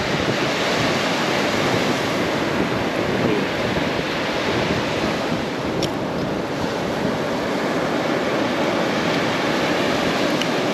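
Steady rush of surf breaking on the beach, mixed with wind buffeting the microphone.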